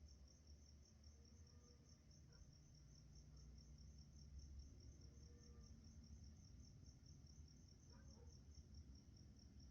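An insect chirping faintly and steadily in a rapid, even pulse, over a low rumble.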